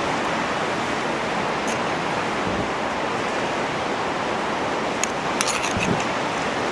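Steady rushing noise outdoors, with a few short sharp clicks about five to six seconds in.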